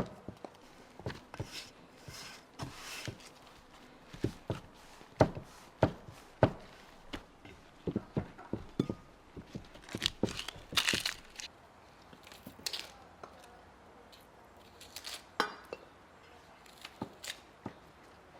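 Food-preparation handling sounds: irregular light knocks, taps and clinks of utensils and containers, with short bursts of rustling or crinkling.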